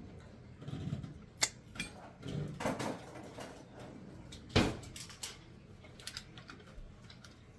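Close-up eating sounds from a seafood meal: chewing and mouth noises with scattered sharp clicks and knocks, the loudest about four and a half seconds in.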